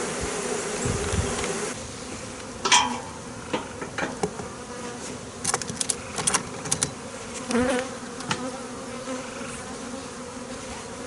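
A honeybee swarm buzzing around a newly hived box, a steady hum. It is louder for the first couple of seconds, with scattered sharp clicks and knocks from a few seconds in.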